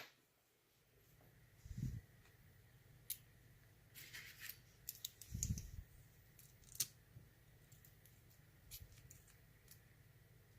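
Faint, scattered small metal clicks and taps from the parts of a dismantled euro lock cylinder being handled as its pins are taken out, with two soft knocks, one about two seconds in and one in the middle.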